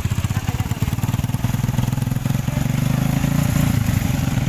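Motorcycle engine running with a rapid, even beat of firing pulses.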